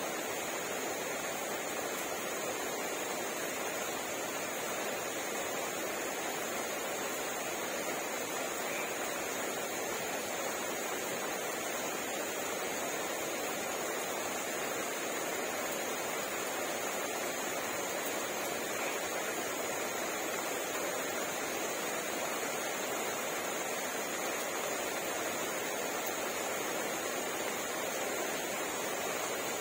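Steady rain, an even hiss that holds without a break or change.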